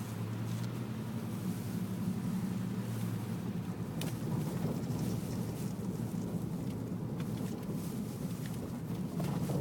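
Steady low drone of a vehicle's engine and tyres heard from inside the cabin while driving, with a light knock about four seconds in.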